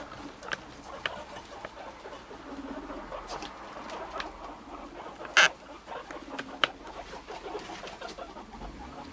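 Guinea pigs making low, rapidly pulsing rumbling calls as they meet; the rumble comes and goes, a sign of the two sorting out dominance during an introduction. Small clicks and rustles throughout, with one sharp loud click about five and a half seconds in.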